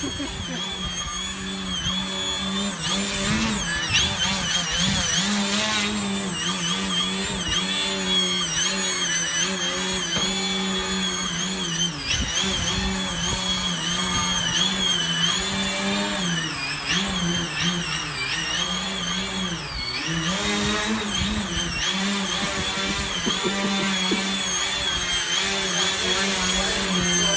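Electric model airplane's motor and propeller whining steadily, the pitch wavering and dipping again and again as the plane flies. Wind gusts on the microphone rush in briefly a few times.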